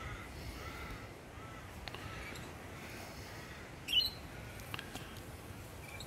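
Birds calling: a run of short, arching notes repeated about every two thirds of a second, then one sharper, louder chirp about four seconds in.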